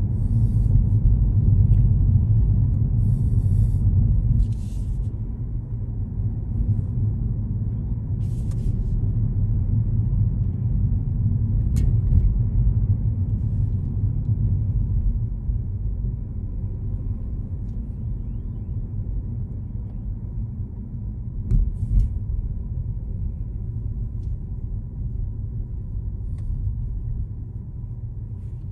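Steady low rumble of a car driving through city streets: engine and tyre noise. A few short hisses break in now and then.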